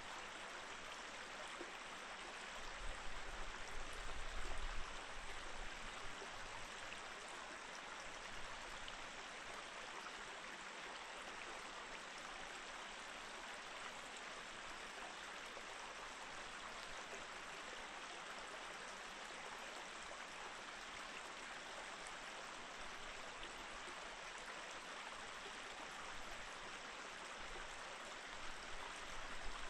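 Mountain stream flowing steadily over rocks, an even rushing of water. A low rumble swells twice, a few seconds in and near the end.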